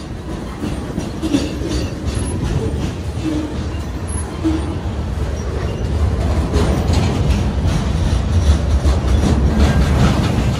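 Freight cars of a CSX train, tank cars and then a loaded centerbeam lumber flatcar, rolling past close by: a steady low rumble with wheels clicking over rail joints, the clicks coming thicker in the second half, and a few short wheel squeaks in the first half.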